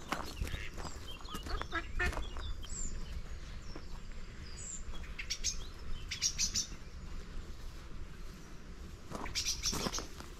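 Small birds chirping on and off, over footsteps crunching on a gravel path.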